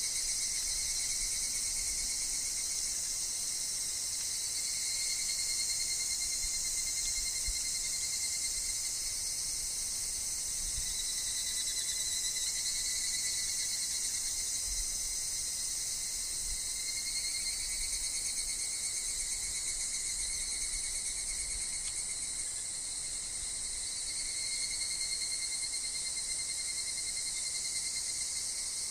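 Steady, high-pitched chorus of insects, with higurashi (evening cicadas) singing in overlapping waves that rise and fade.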